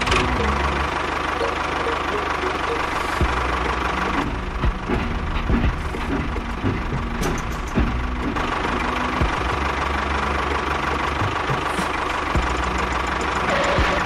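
Tractor engine running steadily, with scattered knocks and clicks.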